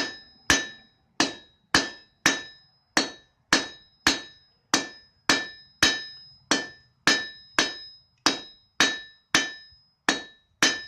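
Steady hammer blows on an anvil, a little under two a second, each with a short metallic ring: 3/8-inch square mild steel stock being forged down to a point.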